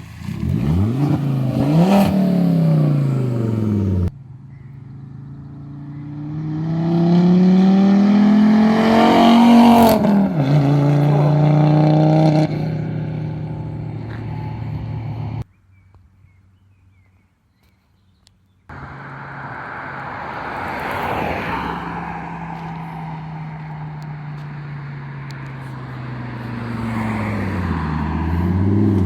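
Volvo S60 2.0 petrol engine through a straight-through, de-catted exhaust, driven past hard several times. In each pass the engine note climbs and then falls away. About halfway there is a break of a few seconds with almost no sound.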